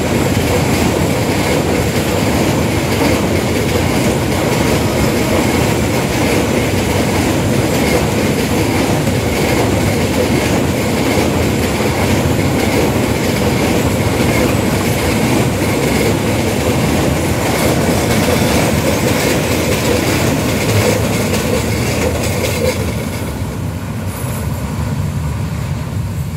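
Freight train of oil tank wagons rolling past close by: a steady loud rumble and clatter of steel wheels on the rails, with a steady whine on top. A few seconds before the end the sound drops away as the last wagon passes and recedes.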